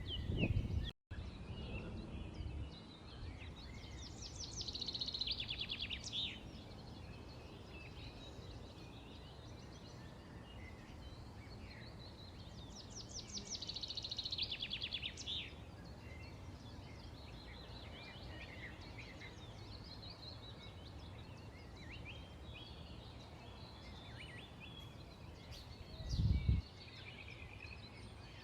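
Many small birds chirping continuously over a steady low background rumble, with two louder rapid trilling songs, about four seconds in and again about thirteen seconds in. The sound cuts out for an instant about a second in, and a short low thump comes near the end.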